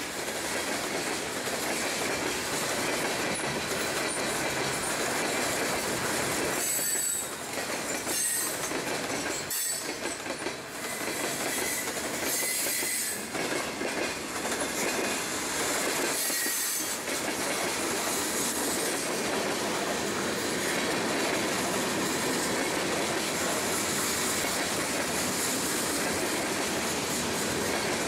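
Freight train cars rolling past close by: a steady rumble and clatter of steel wheels on the rails, the level dipping briefly several times, with a faint high wheel squeal at times.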